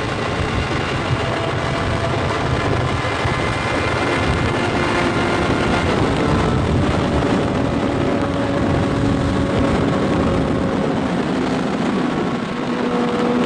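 2009 Suzuki GSX-R 600's inline-four engine running steadily at cruising speed, with wind and road noise. Its pitch drifts gently down through the middle and rises a little near the end.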